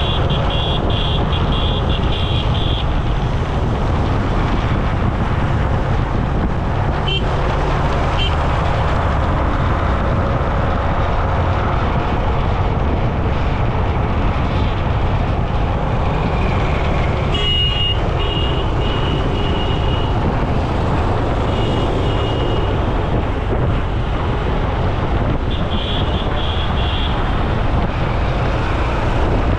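Steady road traffic noise with a heavy rumble of vehicles and wind on the microphone, while riding in traffic. Short runs of high, rapidly pulsing horn beeps sound a few times: at the start, around the middle and near the end.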